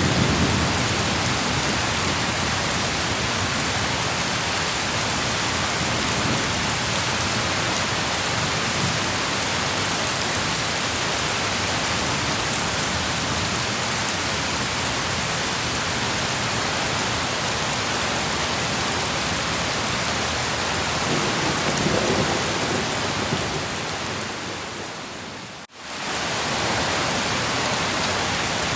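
Steady heavy rain with low rumbles of thunder, one near the start and another about 22 seconds in. Near the end the sound dips briefly to almost nothing and then comes straight back.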